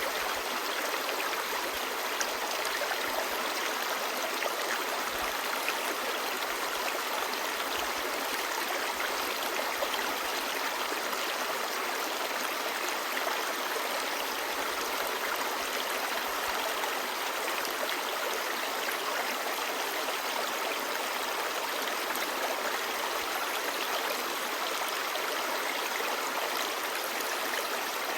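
A shallow, clear stream babbling steadily over stones: an even, unbroken rush of running water.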